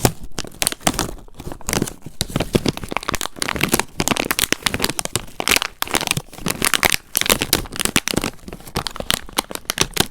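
Close-up crinkling and crackling: a dense, irregular run of small sharp crackles from something being handled or squeezed.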